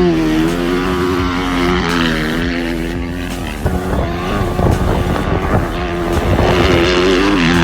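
Motocross bike engine running, its pitch wavering up and down with the throttle, rougher and less steady for a second or two around the middle.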